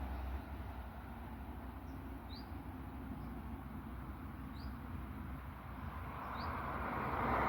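A small bird giving a short, high, rising chirp about every two seconds over a steady background rumble. Near the end a broad rush of noise swells up.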